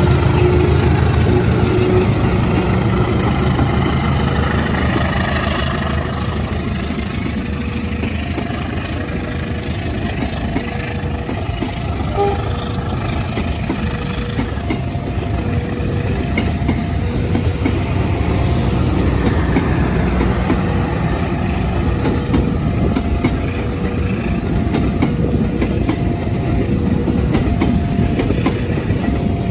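A passing train: a locomotive's engine hum in the first few seconds, then steady rolling wheel and rail noise. From about six seconds in, a repeating two-pitch electronic warning tone sounds over it, several beeps a second, like a level-crossing alarm.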